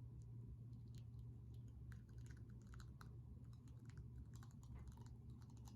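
Faint crinkling and small clicks of plastic wrap being peeled off a fresh tattoo, over a low steady hum.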